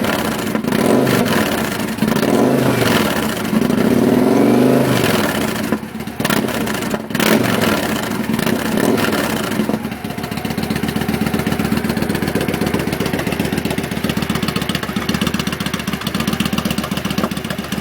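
2008 Victory Jackpot's V-twin engine running through a Hard Krome 2-into-1 SideBurner exhaust. For about the first ten seconds it is revved in blips, its pitch rising and falling. It then settles into a steady idle.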